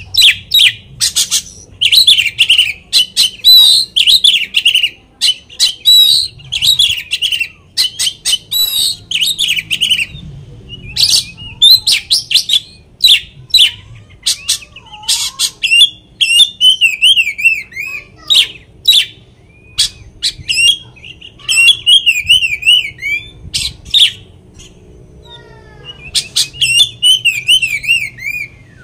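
Oriental magpie-robin (kacer) singing loudly: a fast, varied string of sharp whistles, harsh notes and wavering trills in short bursts with brief pauses. It is a repertoire song full of imitated phrases, used as a lure to provoke other magpie-robins into singing.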